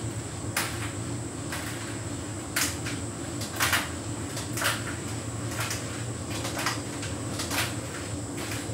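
Hotpoint heat pump tumble dryer running: a steady low hum with irregular sharp clicks and knocks every second or so as the load tumbles in the drum.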